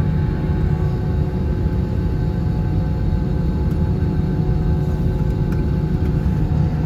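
Airbus A321-231's IAE V2500 turbofan engines running at idle, heard from inside the cabin as a steady low rumble with several steady hums over it.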